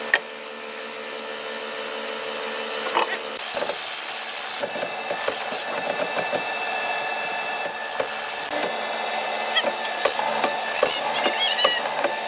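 A tool working solid red hardwood: a steady scraping that builds over the first few seconds, then turns uneven, with many small clicks from about three and a half seconds in.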